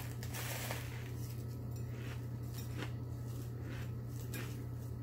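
Biting into a sandwich filled with potato chips and chewing it: a crunchy bite in the first second, then a few scattered crunches while chewing, over a steady low hum.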